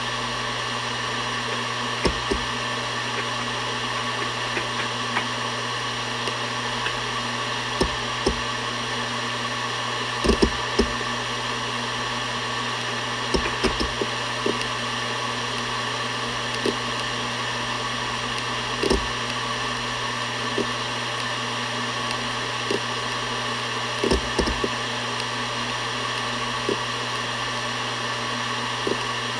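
Seagate Barracuda ES.2 ST31000340NS 7200 rpm hard drive spinning with a steady hum and whine. Its head actuator makes short seek clicks at irregular times, a few seconds apart and sometimes in quick pairs or small clusters.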